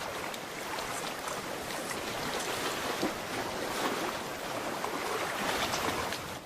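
Steady rush of water, cutting off abruptly at the end.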